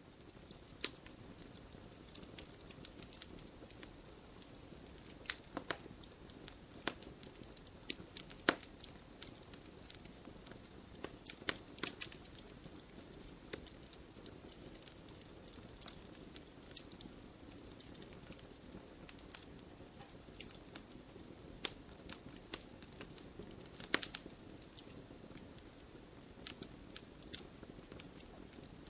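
Wood fire crackling in a fireplace: a steady soft hiss with irregular sharp pops and snaps, a few louder ones scattered through.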